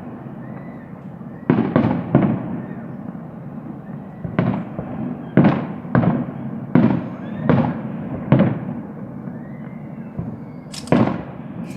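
Fireworks going off: about ten sharp bangs at irregular intervals, each echoing briefly, with two in quick succession near the end. Faint whistles can be heard between the bangs.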